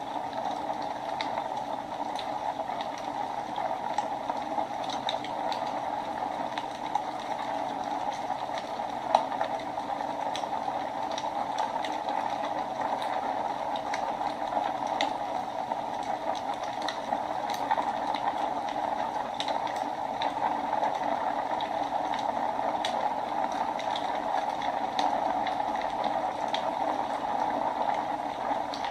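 Wood fire burning in a fireplace: a steady low rush of flames with irregular small crackles and snaps, and one louder pop about nine seconds in.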